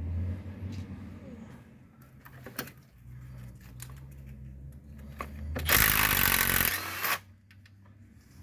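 Cordless impact wrench spinning a bolt out of the engine for about a second and a half, starting nearly six seconds in. A few light clinks of tools and sockets come before it.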